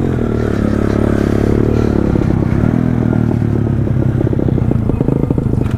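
Pit bike's small single-cylinder engine running, its pitch held fairly steady and then easing off in the second half into a choppier, pulsing idle.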